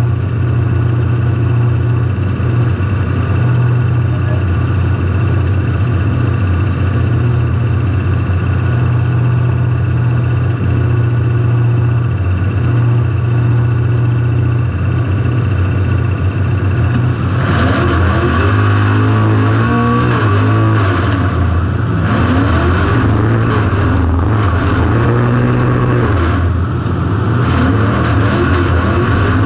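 Car engine heard through an on-car camera, running at a steady speed at first. About halfway through it begins revving up and down again and again, with rougher, louder noise and a few sharp knocks.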